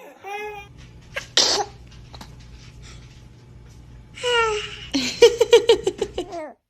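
Baby vocalising: a short high-pitched coo, a brief breathy burst about a second and a half in, then a squeal and a quick run of laughing pulses near the end, over a faint low steady hum.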